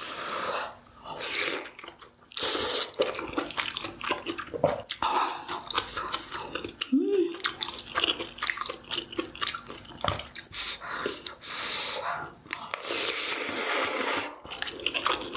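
Close-miked chewing and biting of kimchi dumpling hot pot, wet and irregular mouth sounds with many small clicks, and a longer rushing noise a little before the end.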